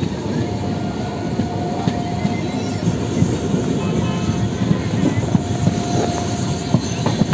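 Moving passenger train heard from on board: a loud, steady running rumble with irregular clacks of the wheels over the rails.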